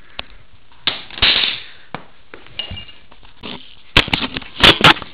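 Small metal hand tools, a screwdriver and a small wrench, being handled and clinking. There is a rustle about a second in, then a quick cluster of sharp clanks about four seconds in.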